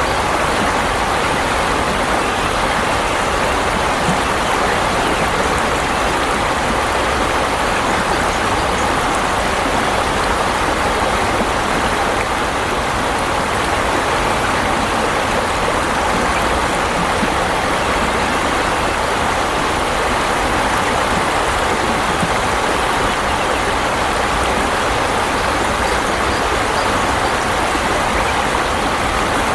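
Flowing water rushing steadily, like a stream or small weir, with no change throughout.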